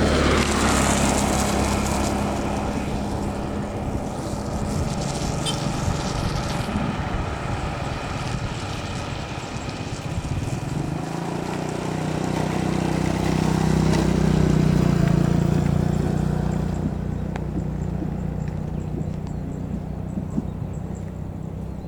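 Engine noise: a broad hiss over the first several seconds, then a deeper engine hum that swells about halfway through and slowly fades.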